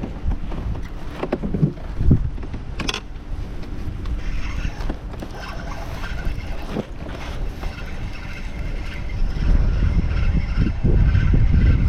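Wind buffeting the microphone with a steady low rumble, broken by scattered knocks and clicks. A faint whir joins about four seconds in.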